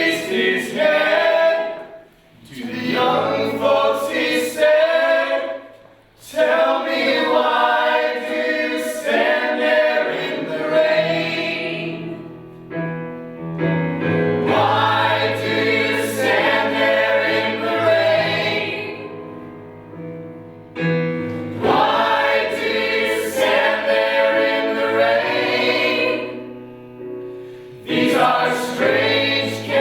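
A group of voices singing together like a choir, in long phrases with brief breaks between them.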